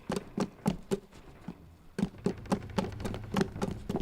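Cartoon sound effects: a quick, even run of light taps and thuds, about three to four a second, with a short break a little before halfway.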